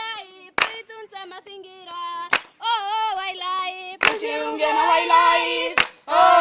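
A single lead voice sings unaccompanied. About four seconds in, a group of children's voices joins in chorus. Sharp hand claps keep time, one roughly every two seconds.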